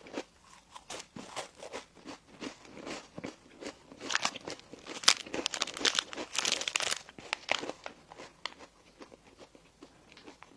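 Close-miked eating of bakery bread and pastry: a steady run of short, crisp bites and chewing sounds, turning louder and denser from about four to seven and a half seconds in.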